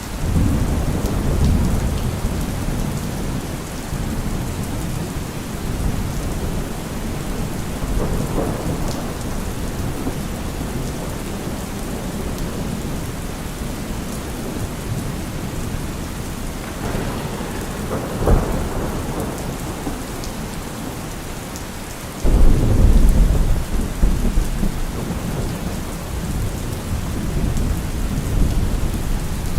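Steady rain falling on trees, with rolling thunder: low rumbles from the start, a sharper crack a little past halfway, and a loud rumble about three quarters of the way in.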